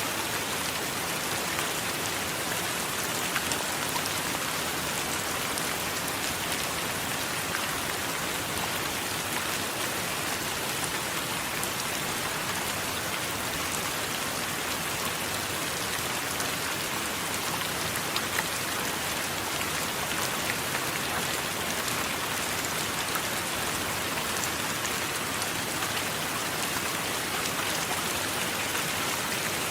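Steady heavy rain falling on a surface, a dense even hiss with scattered sharp drop ticks.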